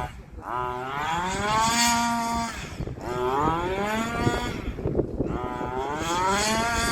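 1/5-scale gas RC car's small two-stroke engine revving up three times in a row, each time rising in pitch for about two seconds before dropping back.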